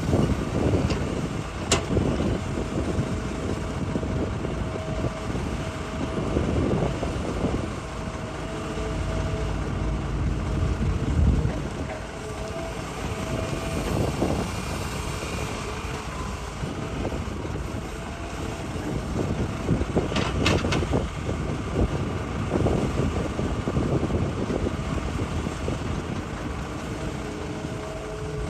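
Hitachi hydraulic excavator's diesel engine running under load while digging rock, its sound swelling and easing, with a couple of sharp knocks, one about two seconds in and one about twenty seconds in.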